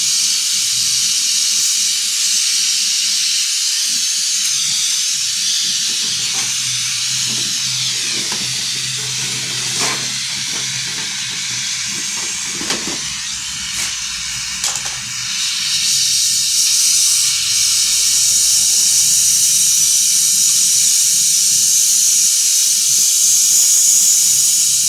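Loud, steady hiss of gas under pressure, which grows louder about fifteen seconds in, with a few light knocks along the way.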